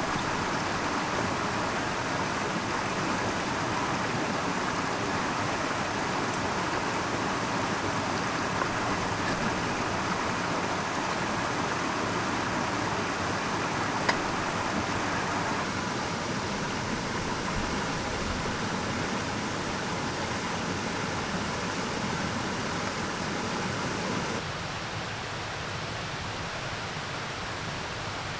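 Mountain stream water rushing steadily. About 24 s in it changes abruptly to a slightly quieter, duller rush.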